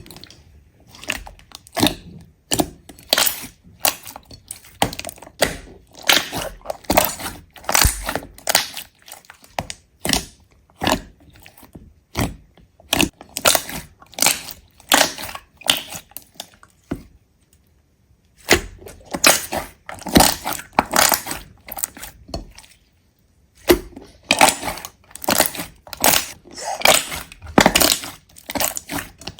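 A dense run of sharp cracking and crunching noises, like something brittle being broken or crushed, coming in clusters with a pause of about a second and a half just past the middle.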